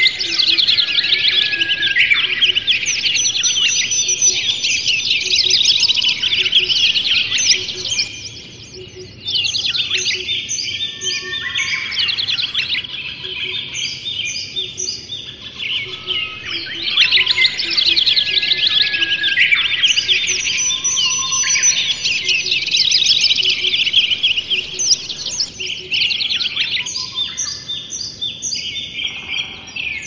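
Birds chirping and twittering in a dense, continuous chorus of quick high-pitched calls, with a short lull about eight seconds in.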